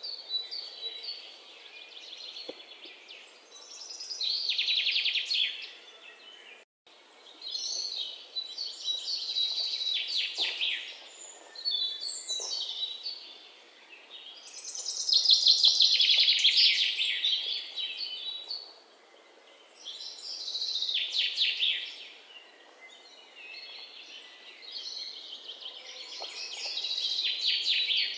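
Songbirds singing: a string of high, fast-trilled song phrases a second or two long, coming every few seconds over a soft outdoor background, with a split-second dropout about seven seconds in.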